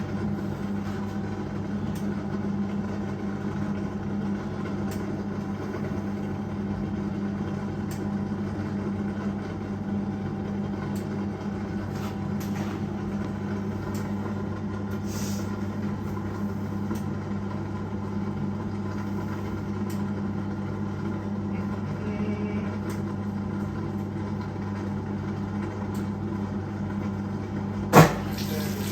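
Hoover 1400 top-loading washing machine running with a steady motor hum and faint ticking. About a second before the end comes one sudden loud clunk as it switches into spray rinse.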